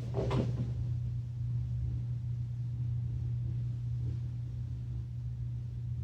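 A steady low hum runs throughout, with faint scattered handling sounds.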